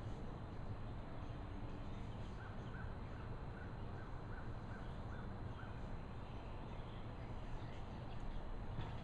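A bird calling a quick run of about nine short, even notes, roughly three a second, over a steady low background rumble.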